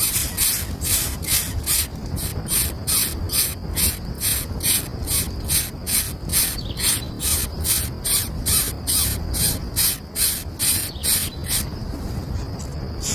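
Nestling birds begging, a rapid even run of raspy, high-pitched calls, about two to three a second, that breaks off about a second and a half before the end.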